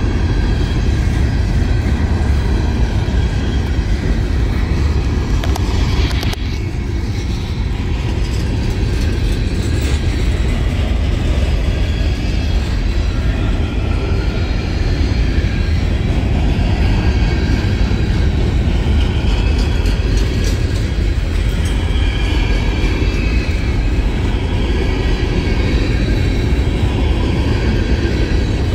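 Trash train's freight cars rolling past: a steady rumble of steel wheels on rail with some clacking over the joints.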